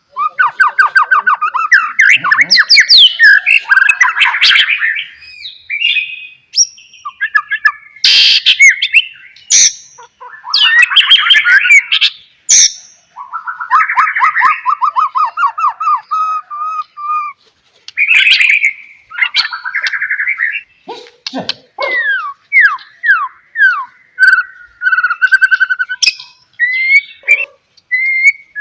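White-rumped shama (murai batu) in full song: a long, varied run of fast trills and whistled phrases mixed with sharp clicks, with a string of quick falling notes past the middle.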